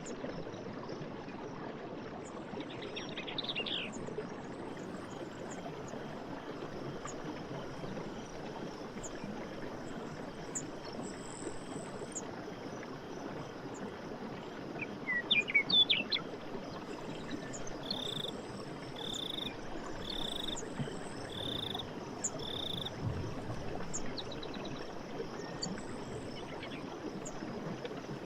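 Forest night ambience: a steady hiss of insects and background noise with faint high ticking, and animal calls now and then. A brief trill about three seconds in, a louder burst of chirps near the middle, then a run of five short, even notes.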